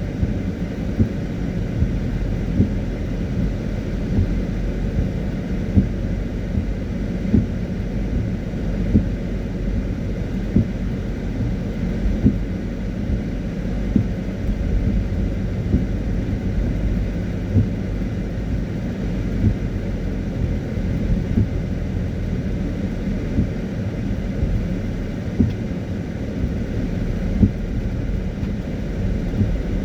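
Car driving in the rain: a steady low rumble of road and engine noise, with a short knock about every second and a half.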